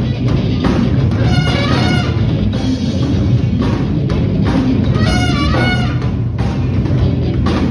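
A band playing, with a drum kit keeping a steady beat under a bass line. A lead instrument plays two short, bending phrases, one about a second and a half in and one about five seconds in.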